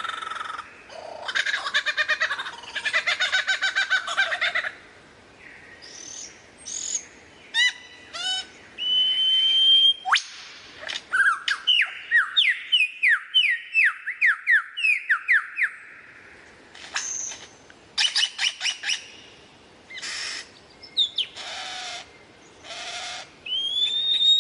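Lyrebird singing a varied medley of mimicked calls: a rapid rattling phrase, scattered short whistles, then a quick run of falling whistled notes, ending with a rising whistle.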